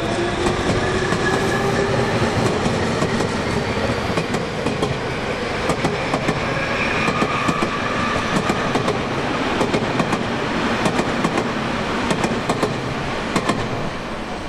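Tobu 30000 series electric train running along the rails, its wheels clicking over rail joints, with a motor whine that slides in pitch over the steady running noise.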